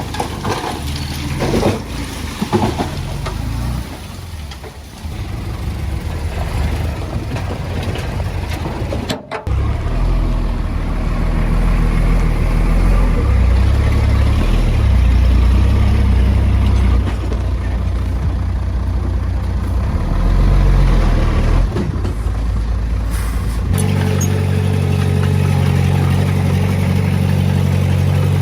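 Heavy-equipment diesel engine running hard with a strong low drone. Knocks and rattles sound in the first few seconds. Near the end the engine changes abruptly to a steadier, even note.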